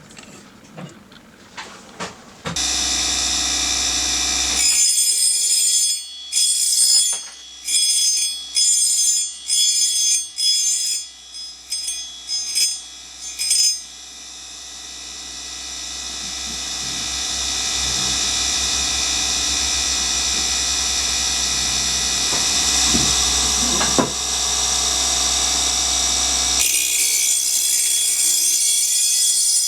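Tradesman Machinist DC bench grinder running with a steady high whine while an end mill's neck is ground down. For several seconds it comes and goes in short pulses, then holds steady and grows gradually louder.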